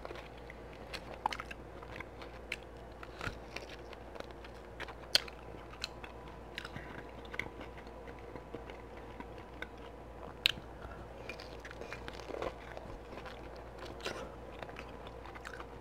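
Close-up mouth sounds of someone eating sauced beef ribs: wet chewing with scattered sharp smacks and clicks, a few louder ones, over a faint steady hum.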